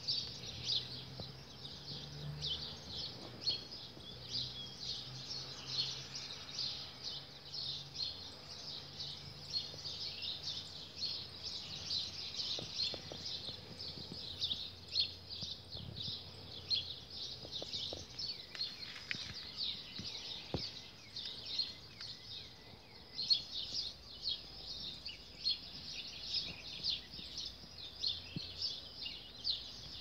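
Small birds chirping continuously, a busy chorus of short, rapid high-pitched notes.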